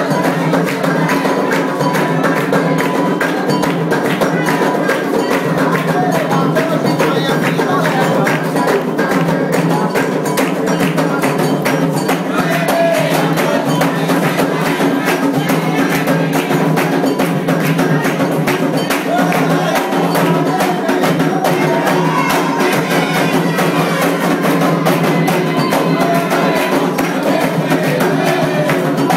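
Candomblé ritual music: fast, steady drumming on atabaque hand drums with a struck bell pattern and singing voices.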